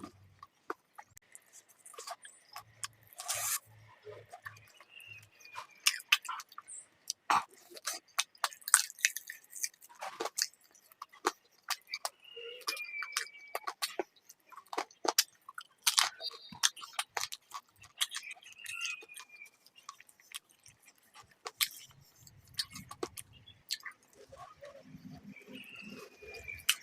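Close-miked eating sounds: wet chewing and mouth smacks on chicken curry and rice, a steady run of irregular sharp clicks.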